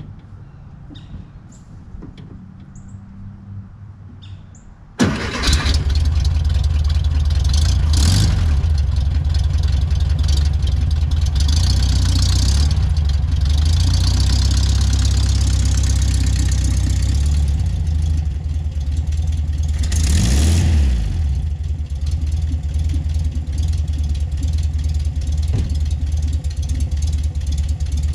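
1957 VW Beetle's air-cooled flat-four engine starting from cold about five seconds in, then running steadily with two brief revs, freshly filled with 3 quarts of new oil.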